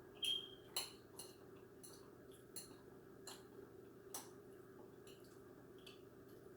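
Faint, scattered light clicks and taps of a utensil against a dish while eating, about eight in all, the first with a brief ring, over a low steady hum.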